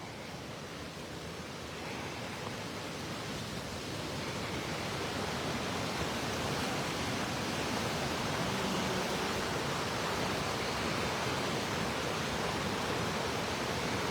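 Rushing water of a river waterfall, a steady roar that grows louder over the first several seconds and then holds.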